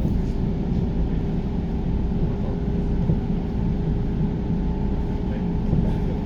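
Interior of a JR New Rapid electric train running at speed: a steady low rumble of wheels on rail with a faint steady hum.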